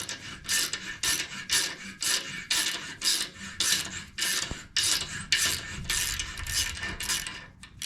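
A thread tap being worked through a dirty, damaged threaded hole for a lathe leveling screw, with rhythmic rasping strokes about two a second as it cleans up the threads.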